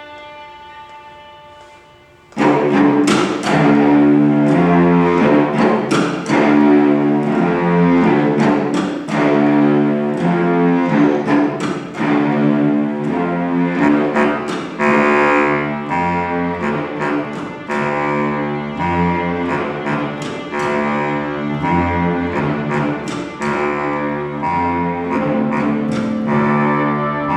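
Orchestral music with bowed strings and a low bass line, moving in a steady rhythm of changing chords. It comes in suddenly about two seconds in, after a held tone that fades.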